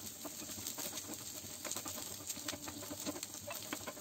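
Sliced onions and garlic sizzling gently in a little olive oil in a nonstick frying pan over a very low flame: a soft, steady sizzle with scattered small crackles and pops.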